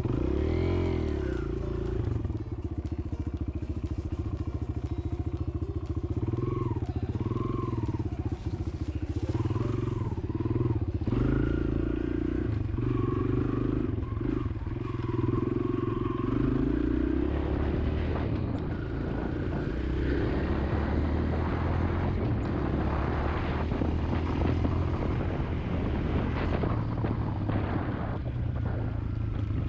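Kawasaki KLX140L's air-cooled single-cylinder four-stroke engine running as the bike is ridden, its pitch rising and falling several times with throttle and gear changes, running well in the owner's words. Wind noise on the microphone.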